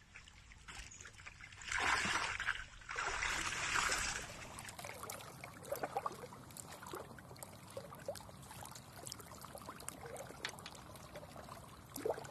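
Water trickling and lapping, with small splashes and clicks, and two louder rushing spells about two and three to four seconds in.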